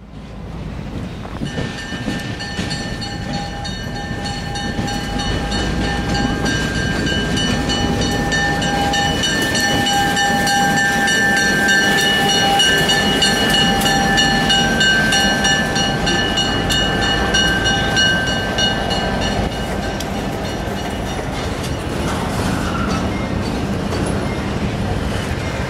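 A train rolling by, its wheels clicking steadily over the rail joints. A steady high whine made of several tones sounds over it from a second or two in until about two-thirds of the way through.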